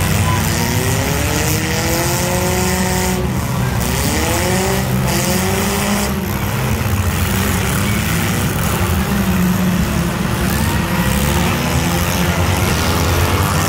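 Engines of compact demolition-derby cars running under a constant low rumble, with one engine revving up and down several times in the first half and again near the end.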